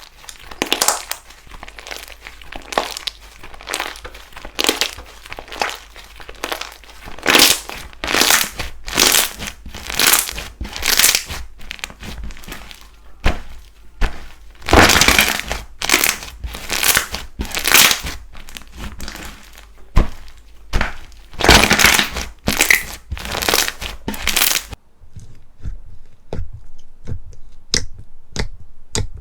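Slime squeezed and pressed by hand, a run of crackling, crunchy strokes roughly one a second. About 25 s in it changes to a quieter series of sharp, thin clicks.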